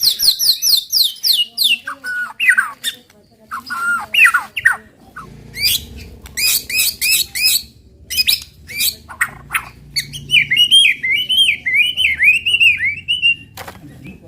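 White-rumped shama (murai batu) singing its rapid 'tembakan' song: a fast run of about ten descending whistles at the start, then slurred downward notes, a string of sharp repeated notes, and a rapid chattering warble over the last few seconds.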